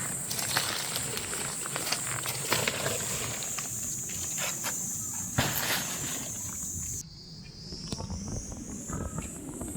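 Steady high-pitched chirring of autumn insects, with scattered crackles and snaps of leaves and twigs underfoot. About seven seconds in, the sound drops abruptly and the insect tone shifts lower.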